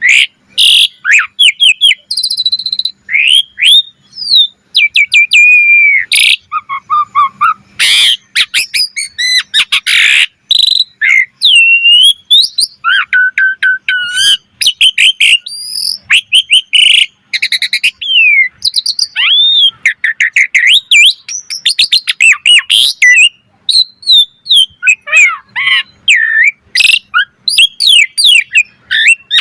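Pied starling (jalak suren) in full song: a loud, near-continuous string of varied whistles, rising and falling glides, harsh chatter and sharp clicks, with hardly a pause.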